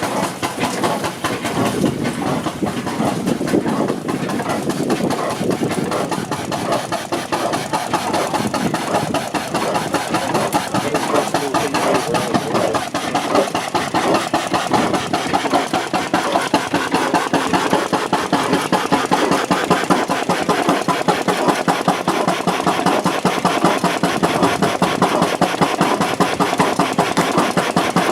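Hornsby & Sons portable stationary engine running steadily with an even, rhythmic beat, a little louder in the second half.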